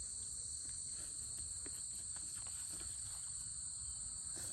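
Steady high-pitched chorus of insects, such as crickets, with faint scattered clicks.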